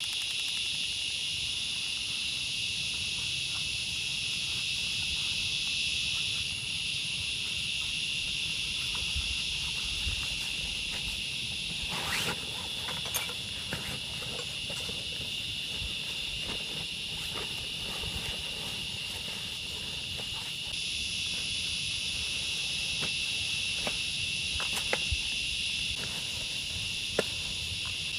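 Steady, high-pitched chorus of forest insects, shrill and unbroken, with a few scattered clicks and a sharper snap about twelve seconds in.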